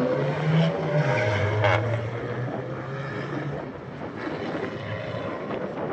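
A car engine running, its note dropping about a second in and then fading as the car moves away.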